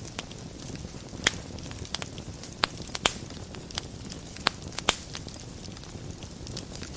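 Wood fire burning in a fireplace: a steady low rumble of flames with sharp crackles and pops at irregular moments, a handful of louder snaps among them.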